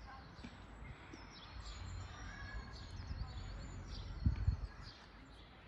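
Several small forest birds chirping and trilling over a low rumble, with two brief low thumps a little over four seconds in.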